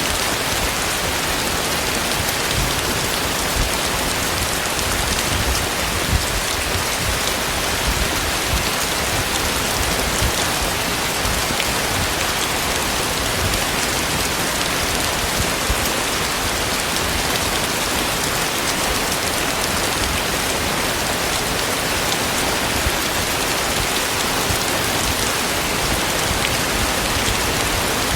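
Heavy rain falling steadily, a dense even hiss with scattered louder drop spatters.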